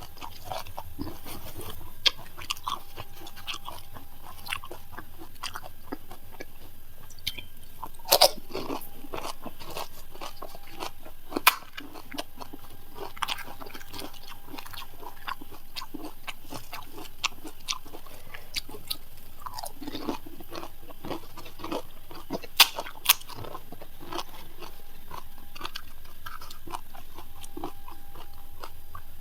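Panipuri being eaten: crisp, hollow puris filled with spiced water, crunched and chewed, with scattered sharp cracks.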